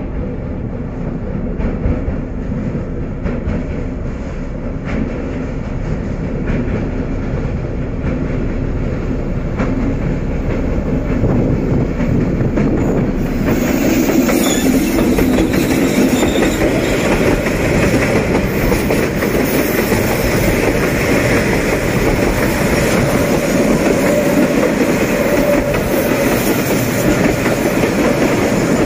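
D20E diesel-electric locomotive approaching out of a tunnel, its rumble growing louder until it passes close about halfway through, when the sound suddenly fills out and brightens. Container wagons then roll steadily past on the rails.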